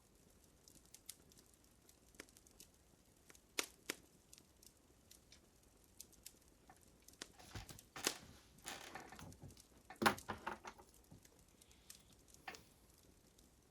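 Wood fire crackling: scattered faint pops and snaps, with a denser run of crackles in the middle and one sharper pop about ten seconds in.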